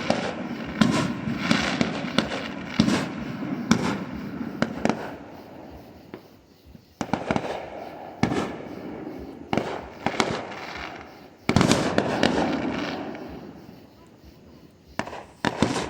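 Fireworks going off in clusters of rapid bangs and crackles, each volley fading out before the next; the loudest volley starts about eleven and a half seconds in.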